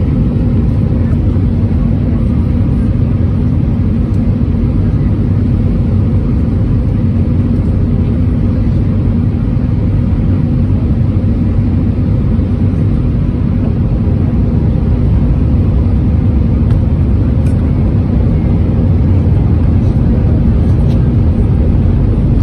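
Airbus A320-231 cabin noise heard from a window seat: the steady rumble of its IAE V2500 engines and rushing air, with a constant low hum and no change in level.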